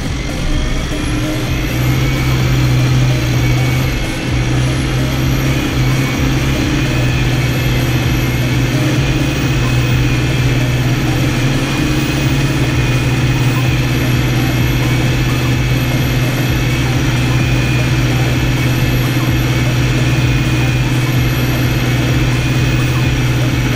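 Fendt 312 Vario tractor engine running steadily while ploughing, with a constant low hum and a faint high whine that wavers gently up and down in pitch.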